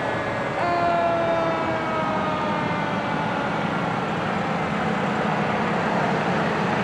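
Fire truck's mechanical Q siren winding down, a steady tone that comes in about half a second in and sinks slowly in pitch, over a steady engine and road rumble.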